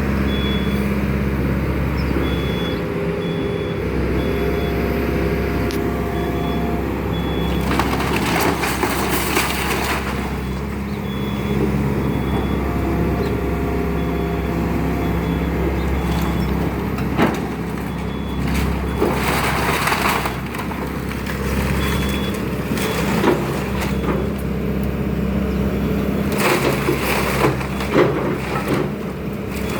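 Excavator's diesel engine running steadily, with a brief hydraulic whine twice, and several bursts of wood cracking and crushing as a house's framing is torn apart.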